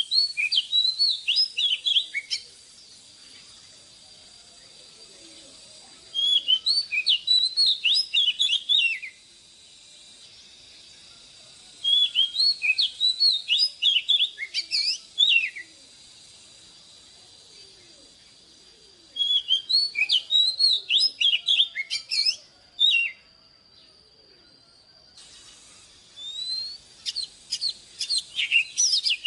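Oriental magpie-robin singing: five phrases of quick whistled and chirping notes, each two to four seconds long, separated by pauses of about three to four seconds.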